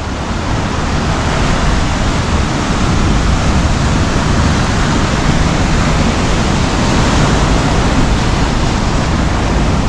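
Rough ocean surf washing in at the shore, a steady, dense rush of breaking waves and foam.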